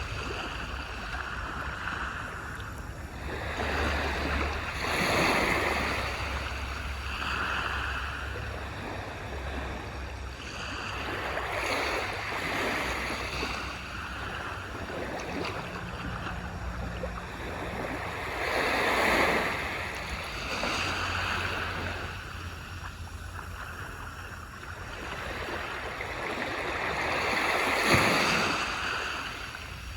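Surf washing onto a shore: four waves in turn, each surge building to a rushing hiss and falling away, the last one the loudest.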